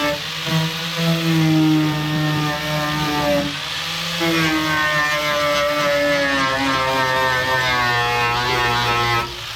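Handheld electric grinder running on sheet metal, a steady whine whose pitch sags and recovers as it bites, dropping briefly about three and a half seconds in and again near the end.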